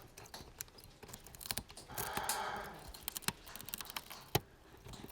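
Hyacinth macaw chewing on a light bulb: scattered sharp clicks and cracks of its beak on glass and metal, with a short crunching scrape about two seconds in.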